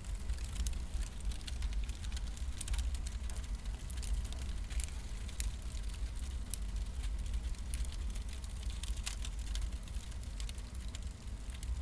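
Wood fires burning, with scattered sharp crackles and pops over a steady low rumble.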